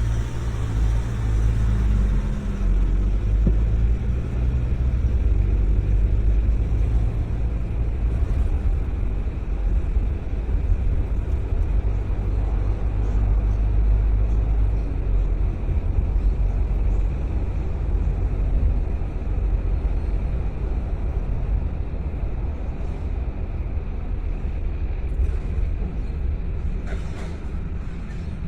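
Car being driven: a steady low rumble of engine and road noise that eases a little in the second half.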